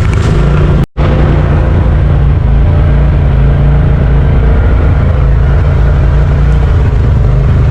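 Side-by-side UTV engine running steadily under way on the trail, with the sound cutting out for an instant about a second in.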